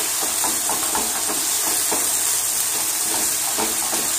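Onions and liver frying in oil, sizzling steadily, while a wooden spatula stirs the onions, scraping and tapping against the pan several times a second.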